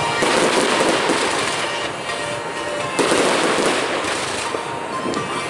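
Fireworks going off in quick succession: a continuous dense crackle with a sharper, louder bang about three seconds in.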